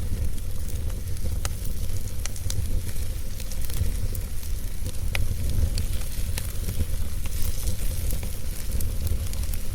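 Wood fire burning, crackling and hissing with scattered sharp pops over a steady low rumble.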